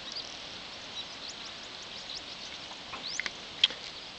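Scattered short bird chirps over a steady high hiss of outdoor background noise, with a sharp click about three and a half seconds in.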